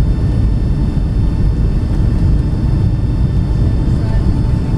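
Steady loud rumble inside the economy cabin of a Boeing 757-200 during landing, from a window seat near the back, with a few faint steady high tones above it.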